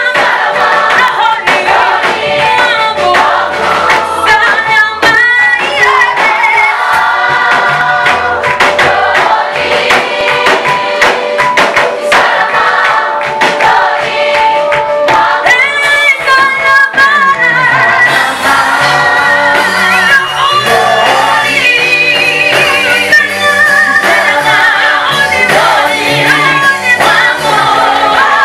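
Choir singing a gospel praise song over instrumental backing with a bass line and percussion.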